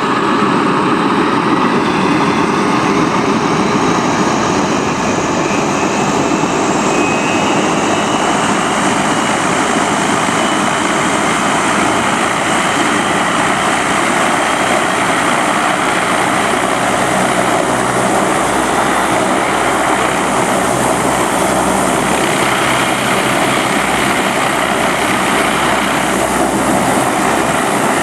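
Sikorsky S-58T's PT6T Twin-Pac turboshaft engine running up during startup: a loud, steady rushing roar with a whine rising in pitch over the first several seconds. A low throb joins about halfway through.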